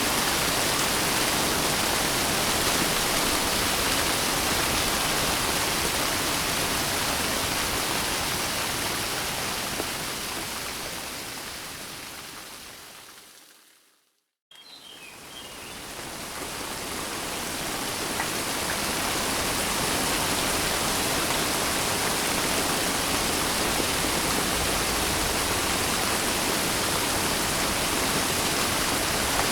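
Steady rain hiss that fades down to silence about halfway through, then fades straight back in over a few seconds, as where a looped rain track restarts.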